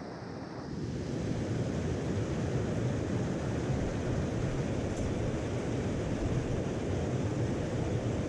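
Steady rushing of a mountain stream, a low, even rush of water with no distinct events.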